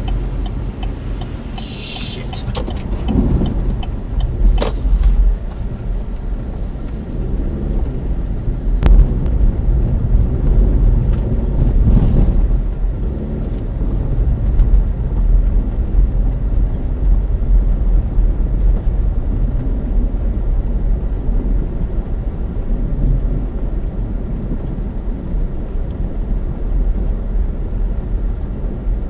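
Chevy Spark driving, heard from inside the cabin: a steady low engine and road rumble, with a few short clicks and rattles, the first about two seconds in.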